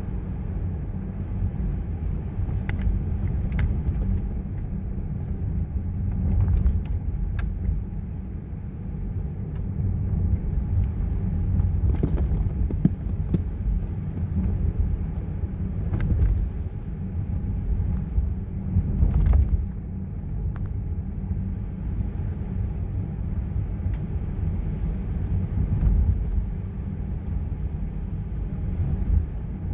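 Car driving through snow, a steady low road rumble with a few faint clicks.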